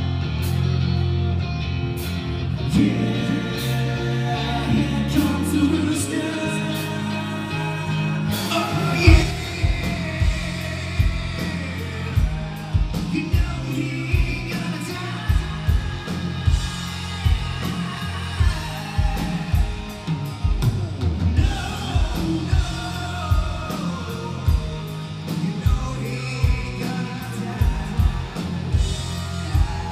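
A live rock band playing with sung vocals, electric guitar and bass. A loud drum hit comes in about nine seconds in, and the drum kit keeps a steady beat from there.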